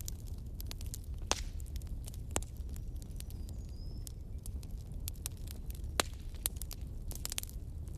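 Wood bonfire crackling: irregular sharp pops and snaps, a few of them louder, over a low steady rumble of the flames.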